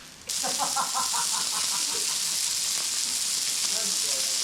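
A steady, loud sizzling hiss that starts abruptly about a third of a second in, with a few short high chirps during the first second or so.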